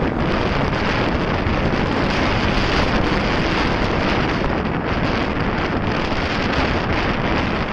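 Steady wind noise on the microphone of a motorcycle in motion, an even rush with road noise from the ride underneath.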